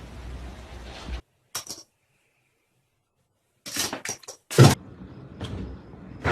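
Indoor household knocks and clatter: a few sharp clicks, then one loud thump about four and a half seconds in, with soft knocking after it, separated from low room noise at the start by a stretch of dead silence.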